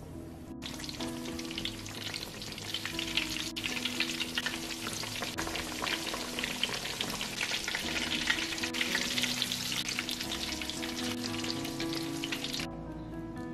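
Breaded pork cutlets deep-frying in hot oil, a dense steady crackle and sizzle. It starts about half a second in and cuts off shortly before the end, with soft background music underneath.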